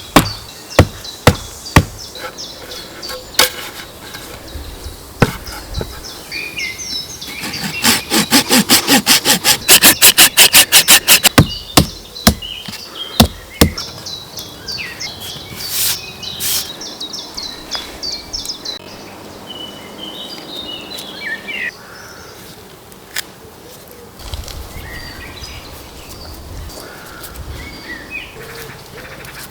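Sharp knocks and taps on wood, then a rapid, even run of strokes for about four seconds, with small birds chirping throughout.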